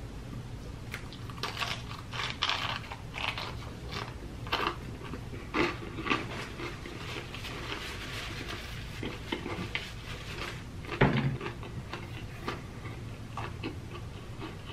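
Close-miked chewing and crunching of a crispy fried chicken sandwich, with many small crisp clicks and mouth sounds. There is one louder sound about eleven seconds in.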